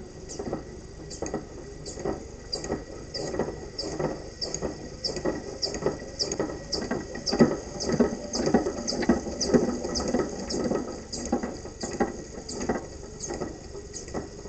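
Solenoid of a small 3D-printed pulse-propulsion device clicking about three times a second, with a stack of bolts rattling and scraping along a tabletop, loudest about halfway through. A steady high whine runs underneath.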